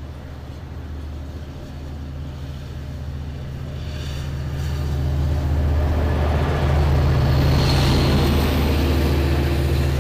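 An EMD DM30AC dual-mode diesel locomotive running with a steady low engine throb that grows louder, peaking about seven seconds in as the locomotive comes close, joined by the rising rolling noise of the train.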